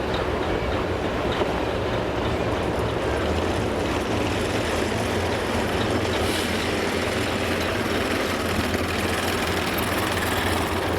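A large diesel engine running steadily with a low, even rumble, with no revving or pulling load.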